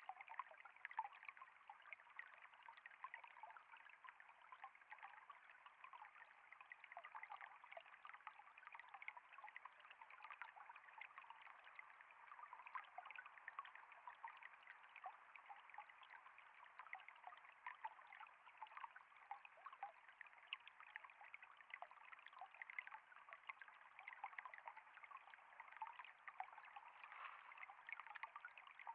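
Faint, steady trickle of flowing water, an even burble of many small splashes with no change throughout.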